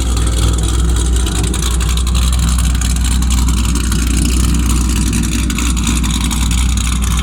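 A car engine running steadily, a loud, even low rumble with no revving.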